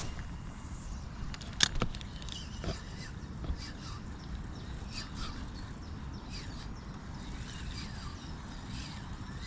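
Birds chirping over a steady low rumble, with a sharp click about a second and a half in.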